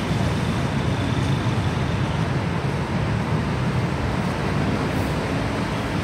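Steady low rumble of a passenger train pulling away into the distance, blended with road traffic noise.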